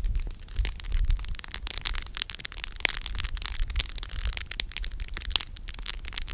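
Wood campfire crackling, with many sharp pops and snaps from the burning firewood over a steady low rumble.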